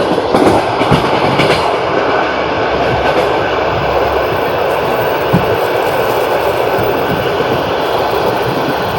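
Long-distance passenger train running on the rails with a steady rumble, its wheels clattering over rail joints; the clicks are sharpest in the first second and a half, with one more about halfway through.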